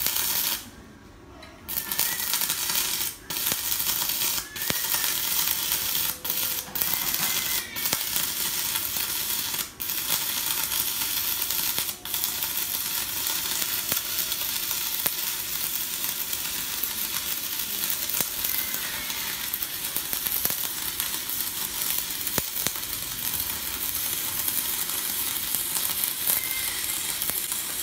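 Stick-welding arc from a Kenmax ARC200I inverter welder at about 168 A, crackling and sizzling as the electrode burns. The arc breaks off and restrikes several times in the first twelve seconds, then burns steadily, with the rod burning off very fast.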